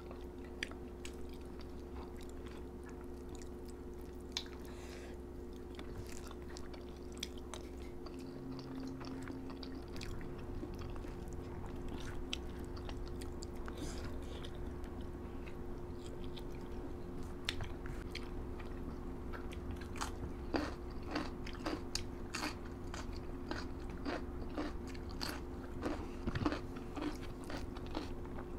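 People chewing and crunching food with wet mouth clicks, which come thicker in the second half. A steady low hum runs underneath.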